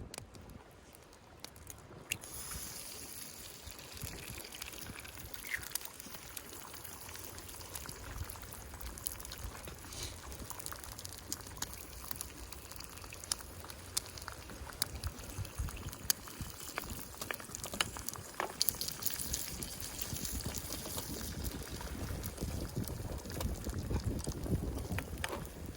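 Liquid sounds with scattered sharp clicks throughout, growing a little louder near the end.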